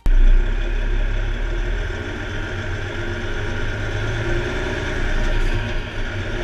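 Heavy-haul truck running on the road: a steady low engine rumble with road noise. It starts abruptly as the music cuts off.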